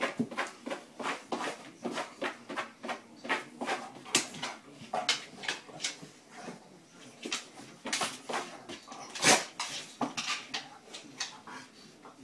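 A golden retriever clawing and scratching at a cardboard scratching pad on a wooden floor: a quick, irregular series of scrapes, several a second, with one louder scrape about nine seconds in.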